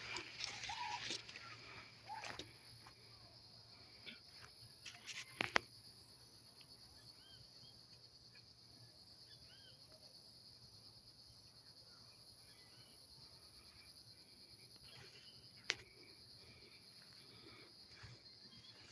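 Outdoor ambience with a steady high insect drone, faint bird chirps, a few clicks and rustles in the first seconds, and one sharp click later on.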